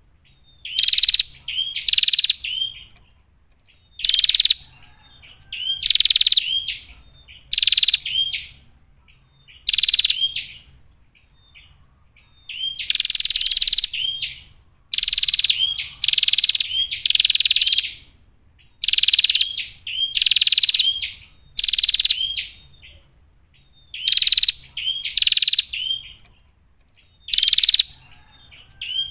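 Female prinia (prenjak) giving buzzy chattering calls, each burst about a second long, repeated in runs of two or three with short pauses between them.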